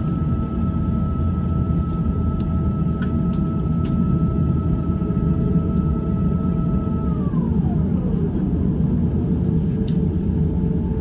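Cabin noise of an Airbus A350-900 taxiing: a steady low rumble with a thin steady whine over it that glides down in pitch about seven seconds in.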